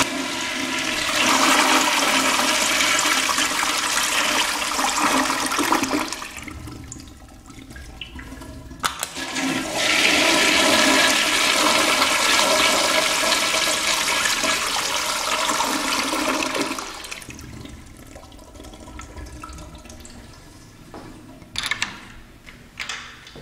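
A push-button toilet in a public washroom flushing twice. A loud rush of water lasts about six seconds, then a second rush starts about ten seconds in and lasts about seven seconds before dying away.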